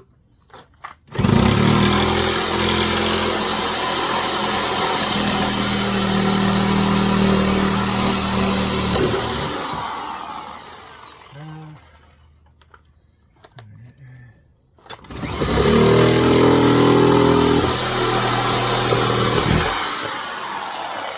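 An electric power tool's motor run twice at full speed, for about eight seconds and then about five, each time with a high whine that falls away as the motor spins down after release.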